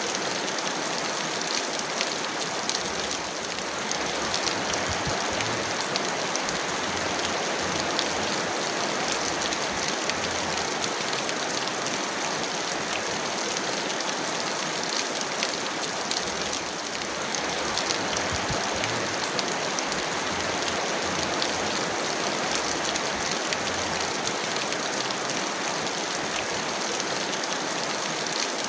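Heavy rain falling steadily: a dense, even hiss sprinkled with countless small drop ticks, easing slightly for a moment twice.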